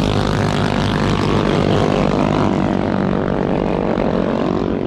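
Small minibike engine running at a fairly steady speed.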